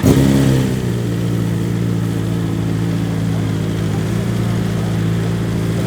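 Motorcycle engine: a short burst whose pitch falls away within the first second, then running steadily at one even pitch.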